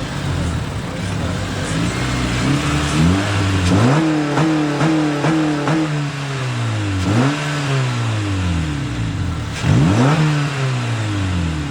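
Car engine pulling away and driving slowly, its revs rising sharply about four, seven and ten seconds in and sinking off slowly after each.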